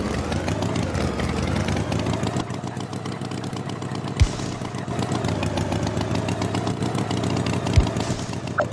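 Engine running steadily, with two short low thumps, one about four seconds in and one near the end.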